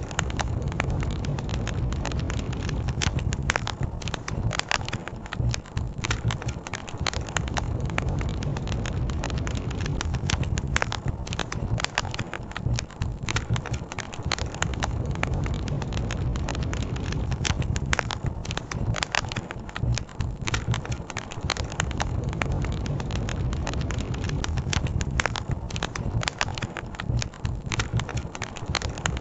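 Wood campfire crackling, with frequent irregular sharp pops and snaps, over a steady low rush of flowing river water.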